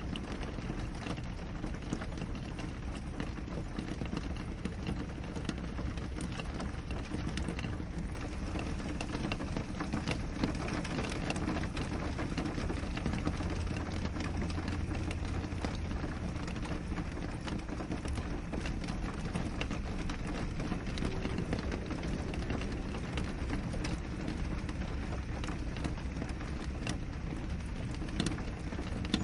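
Steady rain on a window: a constant wash of rainfall dotted with many small drop ticks. A low hum joins it for a few seconds about halfway through.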